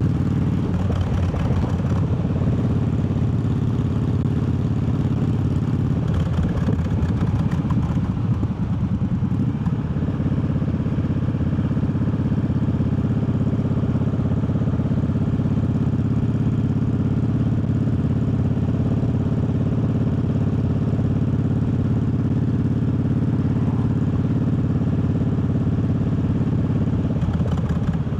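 Triumph Bobber's parallel-twin engine running under way. The engine note shifts a couple of times in the first ten seconds, then holds steady at cruising speed.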